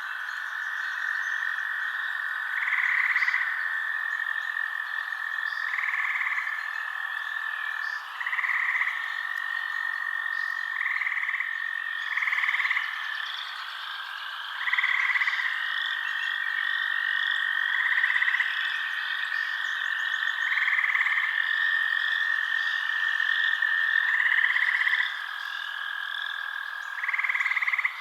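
Night chorus of frogs calling: a steady high trill with louder, slightly higher calls every two to three seconds, over faint chirping.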